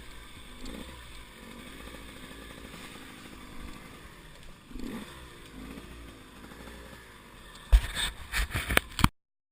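Enduro motorcycle engine running, its revs rising and falling twice. Near the end comes a quick run of loud thumps, and then the sound cuts off abruptly.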